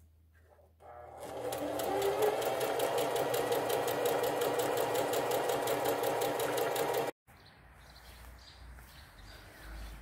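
Electric sewing machine stitching tulle netting: it starts up about a second in, runs at a steady fast stitch, and stops abruptly about seven seconds in. Faint outdoor background follows.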